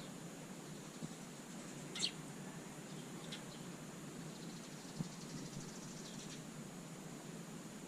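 Small songbirds giving short, high chirps, three times in the first few seconds, then a faint rapid twitter, over a steady low background hum.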